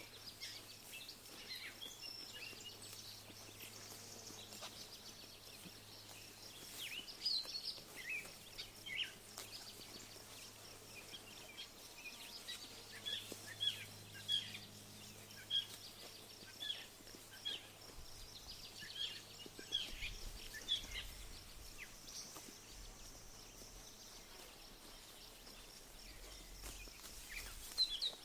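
Small birds chirping across an open field: short high chirps come scattered throughout, in quick runs at times, over a faint steady background hiss and low hum. A faint low rumble joins in the second half.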